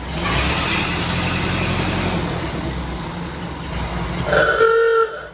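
1931 Ford Model A pickup's four-cylinder flathead engine running just after a battery replacement. Near the end a short held tone sounds for under a second, and then the sound drops off suddenly.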